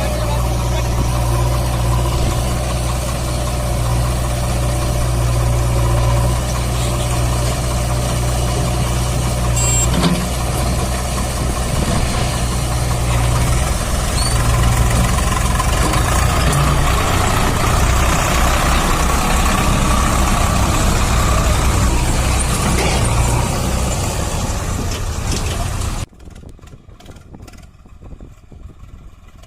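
Swaraj 744 FE tractor's three-cylinder diesel engine running steadily and loud, with a brief click about ten seconds in. Near the end the sound drops sharply to a much quieter level.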